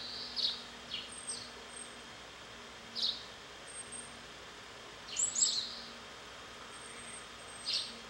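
Japanese tit (Parus minor) giving short, high chirps spread irregularly, with a quick pair about five seconds in the loudest.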